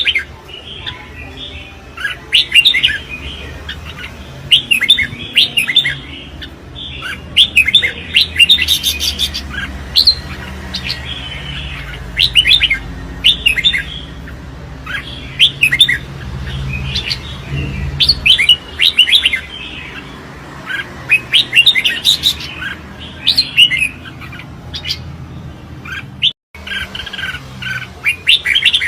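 Red-whiskered bulbul giving its competitive fighting song: short, loud phrases of quick chirping notes, repeated every second or two.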